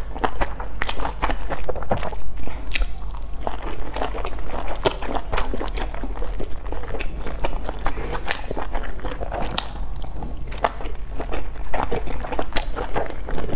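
A person biting into and chewing large steamed dumplings, with many small mouth clicks throughout.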